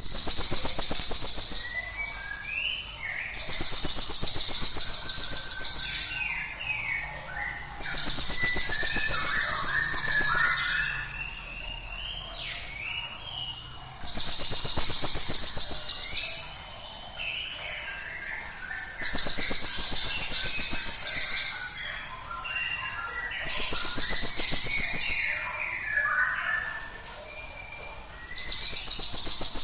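Cinereous tit (gelatik batu) song played as a lure recording: loud, rapid, high-pitched trills about two to three seconds long, repeated seven times roughly every four to five seconds, with softer, varied chirps in between.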